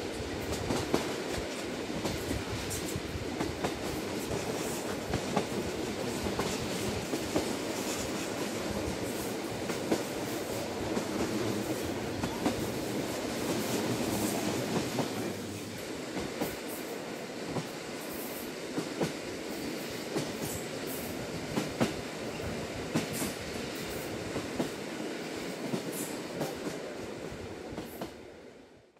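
Inside a JR Hokkaido Lilac Limited Express electric train carriage at speed: a steady rumble of the train running on the rails, with frequent light clicks and knocks from the wheels over the track. It turns a little quieter about halfway through and fades out right at the end.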